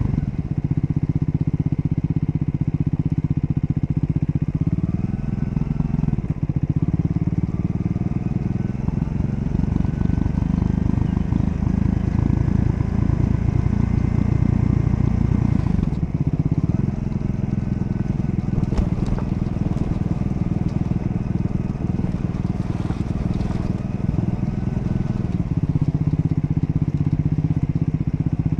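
Triumph Scrambler 400 X's 398 cc single-cylinder engine running under way, its note rising and falling a few times as the revs change. A few sharp clicks come partway through.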